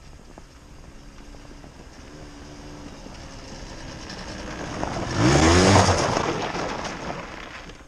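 50cc moped engine revving, growing louder as it comes nearer, climbing sharply in pitch about five seconds in, then fading away.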